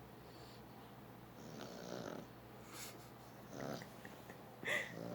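English Toy Spaniel snoring in its sleep: rasping breaths every second or two, with one short, louder sound about four and a half seconds in.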